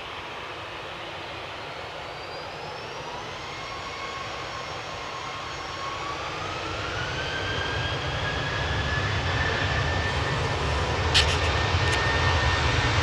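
Emirates Airbus A380 jet engines, steadily growing louder, with a whine that rises in pitch around the middle. A couple of short clicks near the end.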